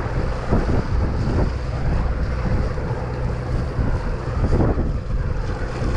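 Wind buffeting the microphone over the steady low rumble of a fishing party boat, with a faint steady hum running through it.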